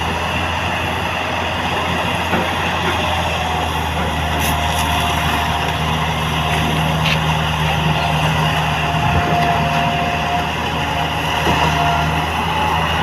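A vehicle engine running steadily as it travels, with a constant low hum and road noise.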